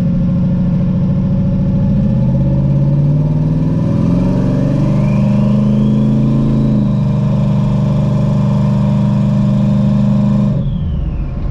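Twin-turbo Camaro engine running loud under throttle. Its note climbs over the first several seconds, with a whine rising above it, then holds steady. Shortly before the end the throttle is lifted: the engine note drops and the whine falls away.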